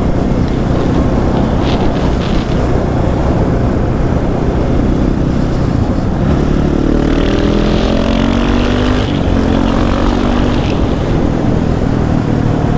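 Dirt bike ride on the street: steady engine and wind noise, with an engine revving up in several quick rising steps that drop back between them, about six and a half to nine seconds in.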